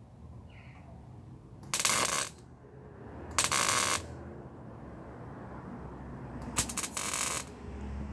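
MIG welder laying three short tack welds on a replacement steel sill, each a burst of crackling sizzle lasting about half a second.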